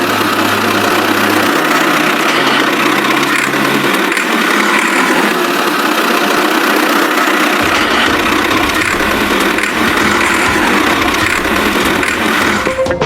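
A small motor or engine running steadily, with a low hum that shifts pitch a few times and gives way to a rougher rumble about halfway through.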